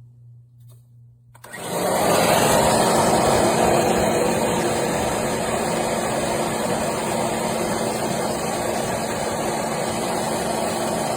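An electric motor starts about a second and a half in and runs steadily and loudly, a whooshing noise with a steady low hum under it.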